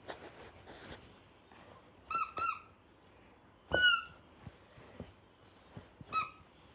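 Rubber squeaky toy poodle squeezed, giving four squeaks: two quick ones in a row, then a longer, louder one, then a last short one.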